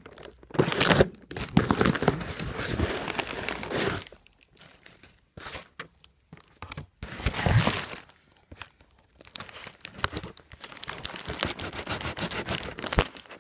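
Packaging being torn open and crinkled by hand, in irregular bursts with short pauses.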